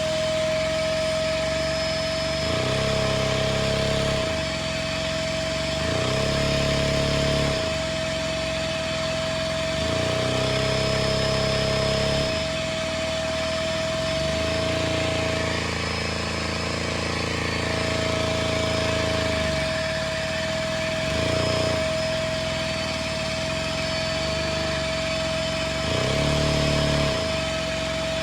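Lego motor-driven drivetrain whirring through a four-speed Lego gearbox and one-cylinder model engine. It has a steady high whine throughout. The lower gear noise grows louder and changes pitch every few seconds as the gears are shifted.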